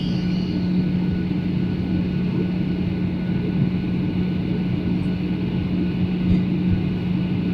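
Airliner cabin noise during descent: the steady drone of the engines and airflow, with a constant low hum over a rumble.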